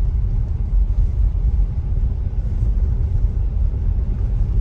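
Steady low rumble of tyre and road noise inside the cabin of a Tesla Model Y, an electric car with no engine sound, driving over an icy, snow-covered road.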